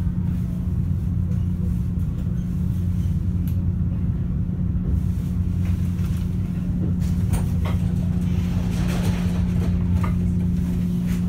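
Interior of a moving Metra bilevel commuter rail coach: a steady low hum and rumble from the running train. Scattered clicks and squeaks from the wheels and car body come in the second half.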